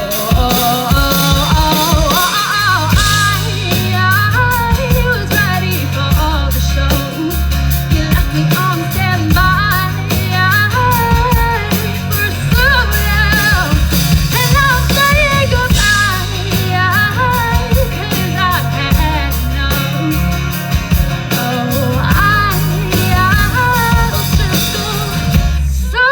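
Live rock band playing a song with drums, bass guitar and a wavering lead melody line over a steady beat, in a break between sung lyrics.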